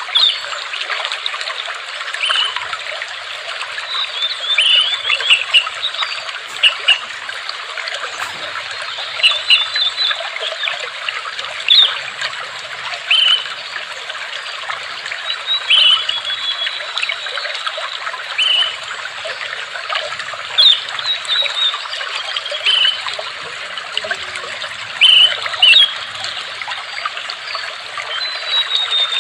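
Water trickling steadily, with short high bird chirps every second or two over it.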